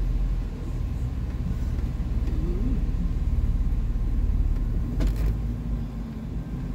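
Jeep Wrangler engine running low and steady while crawling off-road, heard from inside the cab, with one sharp knock about five seconds in.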